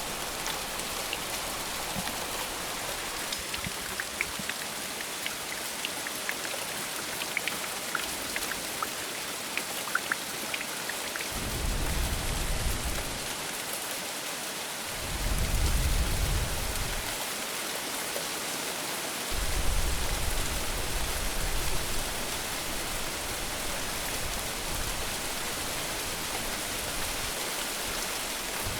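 Steady heavy rain hissing on the ground, with a few separate drip ticks in the first ten seconds. Distant thunder rumbles low under it: short rolls about 12 and 15 seconds in, and a longer roll from about 20 seconds in that slowly fades.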